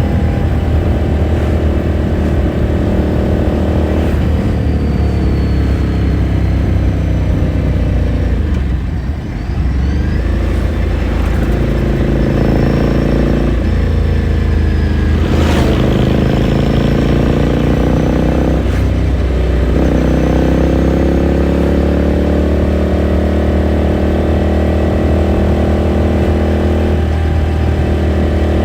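Ducati Scrambler Sixty2's 399 cc air-cooled L-twin under way, heard through its exhaust: the engine note climbs in pitch, breaks off and drops, then climbs again several times as the bike accelerates through the gears and rolls off the throttle. The engine sound dips briefly about nine seconds in.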